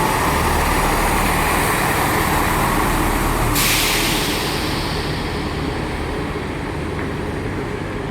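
Class 158 diesel multiple unit's engines running as it pulls out, the sound slowly fading. About three and a half seconds in, a sudden sharp hiss of air that dies away over a second or so.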